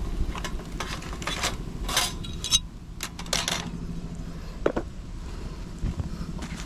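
Small metal camp gear being handled: a series of separate clinks and knocks, with a brief squeak about two-thirds of the way through.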